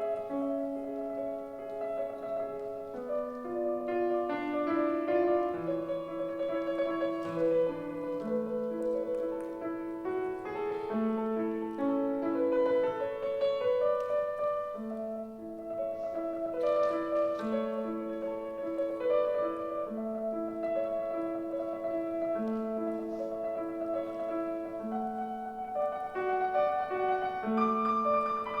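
Solo acoustic piano playing a classical piece in a concert hall: a legato melody in the middle range over a regularly repeating low accompaniment note.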